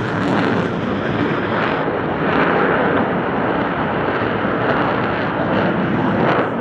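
Steady, loud rushing noise of an aircraft flying past, with no distinct pitch changes.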